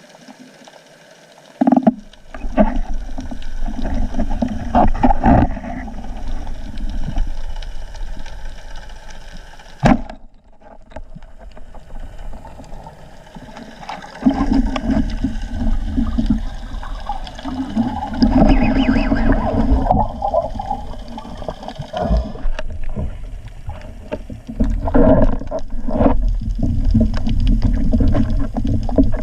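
Muffled underwater noise of water moving against the camera housing as a spearfisher swims, with gurgling and a few sharp knocks.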